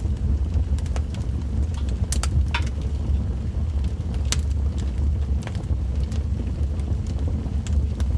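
Wood fire crackling: scattered sharp pops and snaps, irregularly spaced, over a steady low rumble.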